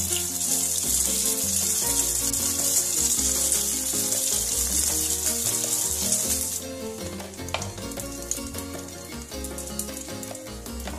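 Rice-paper spring rolls shallow-frying in sunflower oil: a steady, hissing sizzle that drops much quieter about two-thirds of the way through. Background music plays underneath.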